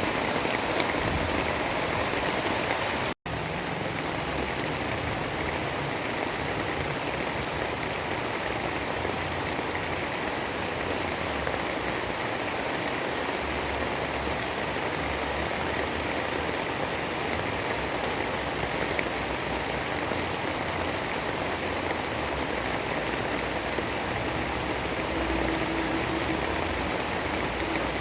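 Steady, even rain, a constant dense hiss with no distinct drops or thunder, broken by a split-second gap about three seconds in where the recording cuts out and resumes.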